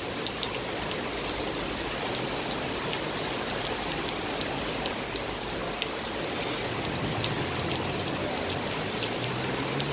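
Heavy rain pouring down steadily, a dense hiss with scattered sharp ticks of drops landing close by.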